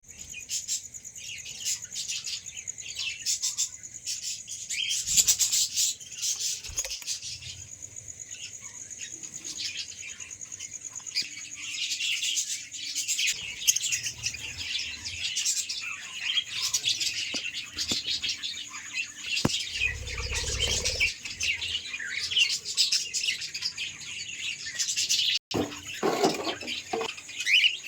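Lovebirds chirping continuously: many rapid, overlapping high-pitched chirps.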